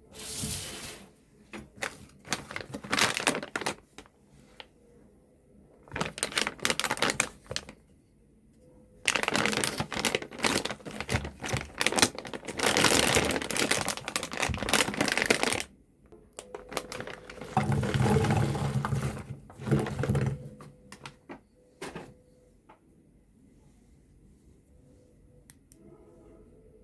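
Crinkling and crackling in irregular bursts a few seconds long, like wrappers of Reese's candies being handled and torn open. A low hum joins in for a couple of seconds past the middle.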